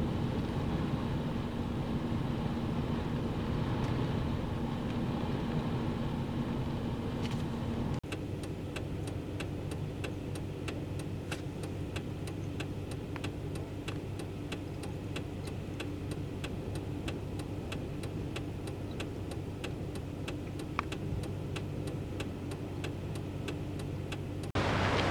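Car running with a steady engine hum. After a cut about eight seconds in, a quieter hum with a regular ticking, two or three ticks a second. Shortly before the end it switches suddenly to a louder rush of wind.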